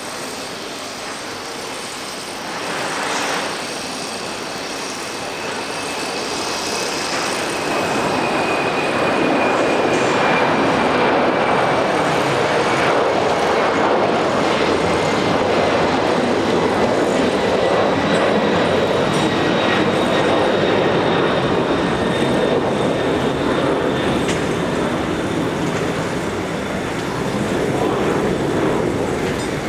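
Four turbofan engines of a departing Boeing 747-400 running at takeoff power: a steady jet roar that swells over the first several seconds and stays loud, with a thin high whine slowly falling in pitch as the aircraft passes.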